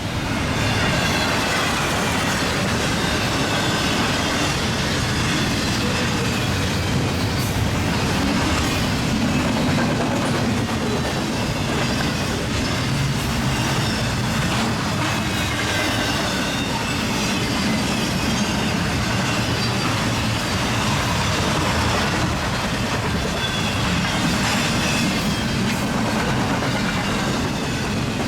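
Union Pacific freight train's cars passing at speed: a steady rolling of steel wheels on rail, with clicking over the rail joints and a faint wavering wheel squeal.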